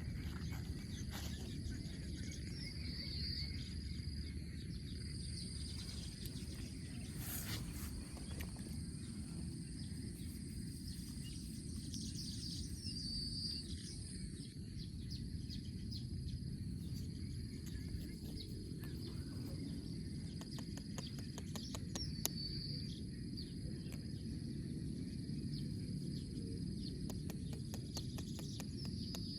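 Outdoor ambience: a steady high insect drone over a low rumble, with a few short bird chirps spread through it.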